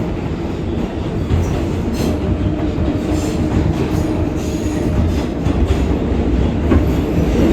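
R188 subway car running at speed, heard from inside the car: a steady low rumble of wheels on rail with scattered clicks over rail joints and faint, brief wheel squeal.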